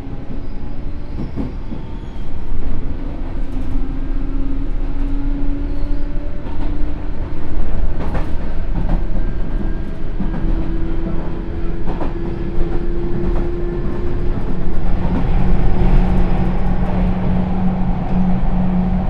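Sotetsu New 7000 series electric train running: the Hitachi GTO-VVVF inverter and traction motors whine in tones that climb slowly in pitch for about ten seconds as the train gathers speed, then hold steadier. Under the whine is a constant wheel rumble, with a few sharp clacks of the wheels over rail joints.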